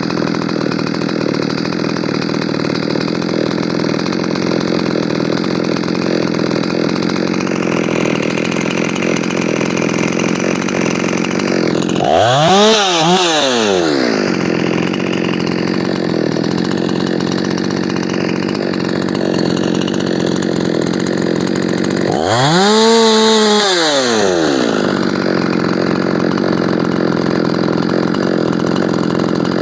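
Ported Efco 165 two-stroke chainsaw idling steadily, blipped twice: about twelve seconds in and again about ten seconds later the engine revs up sharply and drops straight back to idle.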